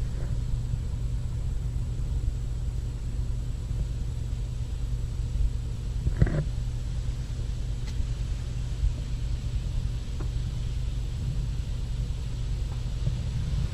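Steady low rumble of the VW Golf R's engine idling, with one brief short sound about six seconds in.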